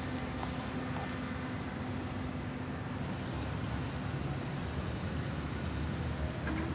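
Steady low rumble of a passing bilevel commuter train, with a faint steady hum under it.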